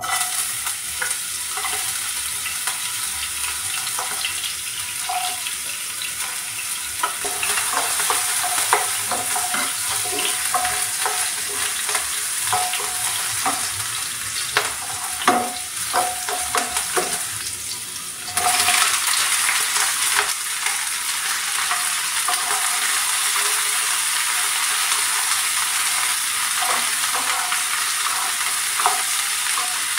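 Chopped garlic and green chilies sizzling in hot oil in a nonstick pan, with a wooden spatula scraping and tapping as it stirs. About eighteen seconds in the sizzle gets suddenly louder as chopped onion and green bell pepper go into the pan, and the stirring goes on.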